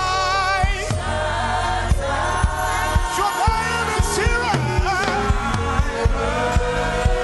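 Gospel worship singing: voices with vibrato over sustained keyboard chords and a steady drum beat.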